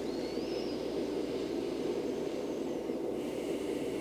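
Steady, soft white-noise bed, an even rushing hiss weighted toward the low-middle range, with no change in level.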